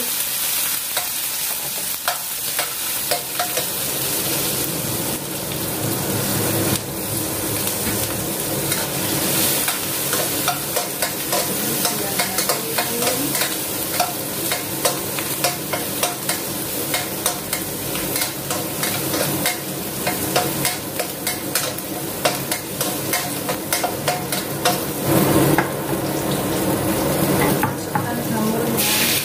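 Chopped shallots and garlic sizzling in hot oil, sautéed in a pan, with a spatula scraping and clicking against the pan as it stirs throughout.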